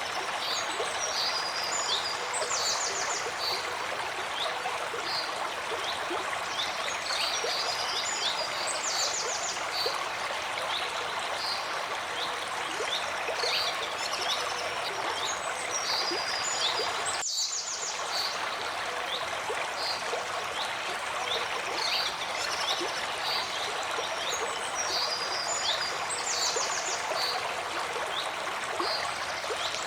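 A clear forest stream flowing steadily, with birds chirping short calls and quick trills over it every few seconds. There is a brief break in the sound about halfway through.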